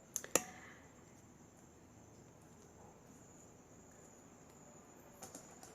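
Faint, steady high-pitched cricket trill, with a couple of small clicks near the start and a few faint ones near the end.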